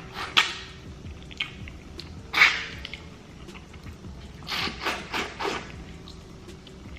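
Eating sounds of someone working on smothered turkey necks: several short, wet mouth noises, the loudest about two and a half seconds in, then a quick run of three or four near the five-second mark.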